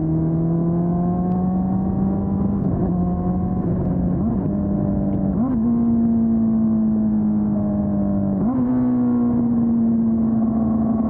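Honda CB400 Super Four's inline-four engine on its stock exhaust, running under way. Its note drops sharply at the start and climbs slowly. It wobbles briefly a few times as the throttle or gear changes, then steps up in pitch a little past halfway and again later, over steady road and wind noise.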